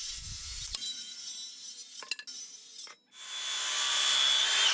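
Power saw cutting 2x3 lumber: a first stretch of saw noise, a brief break about three seconds in, then a louder stretch with a steady high whine.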